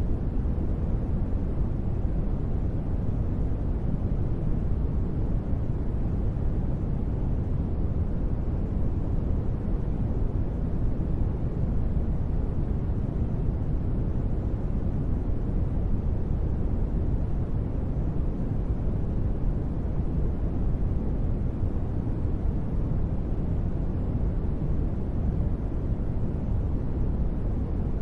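Steady, deep rumbling noise of an ambient space-sound track, even and unchanging, with its weight low down and little hiss on top.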